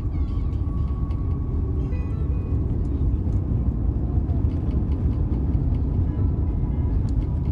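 Airbus A350-900 cabin noise heard from a passenger seat: a steady low rumble from the engines, with a faint steady tone over it.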